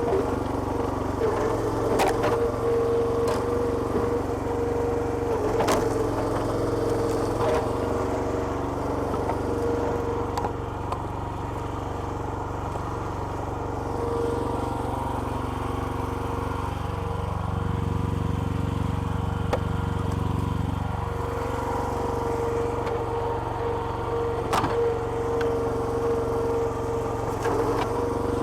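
Small petrol engine driving a home-built hydraulic log splitter, running steadily, its note sagging and recovering a few times as if under load. A few sharp cracks stand out, about 2 s, 6 s and near the end.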